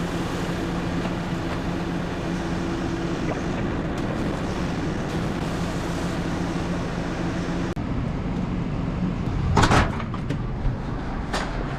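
A vehicle engine running steadily with road noise, heard from inside the cab. About eight seconds in, the engine note breaks off into a plain rushing noise, with two short loud bursts near the end.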